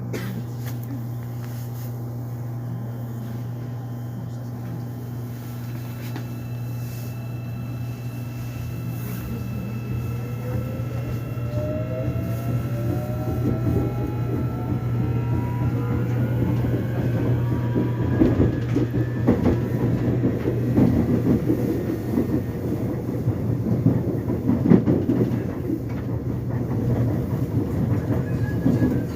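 Subway train pulling away and gathering speed: a steady low hum, then from about eight seconds in a motor whine climbing in pitch, with wheel rumble and rail clatter growing louder.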